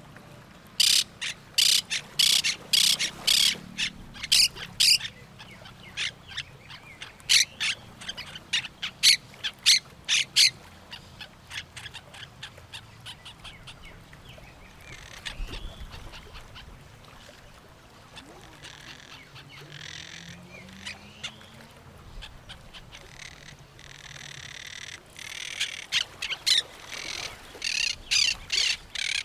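Parrots squawking in runs of short, harsh calls several a second, loudest at the start, again a few seconds later and near the end, with quieter bird calls in between.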